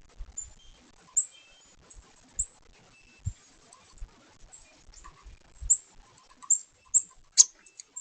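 Downy woodpeckers pecking at suet in a log feeder: irregular sharp taps, never more than a few a second, the loudest near the end. A few faint high chirps between them.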